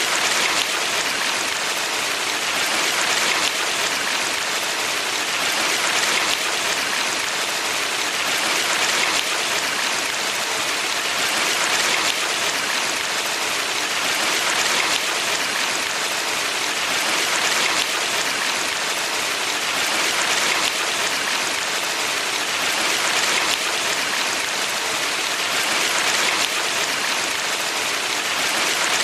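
Steady rush of water in a valley stream, an even hiss that swells gently about every three seconds.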